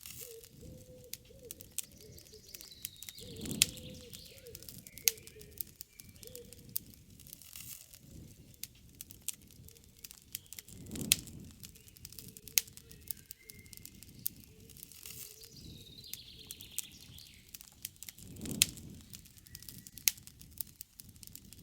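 Wood campfire crackling with many sharp pops and snaps, with birds calling in the background.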